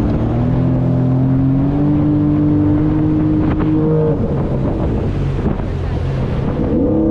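Sea-Doo jet ski engine running with a steady note that creeps slightly up in pitch, then about four seconds in the engine note drops out, leaving a rushing wind noise. The engine is cutting out: its muffler had come loose from a badly tightened clamp, filling the hull with exhaust fumes and starving the engine of air.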